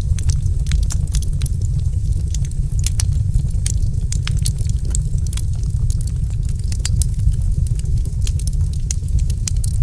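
Wood fire crackling: frequent irregular sharp snaps and pops over a steady low rumble.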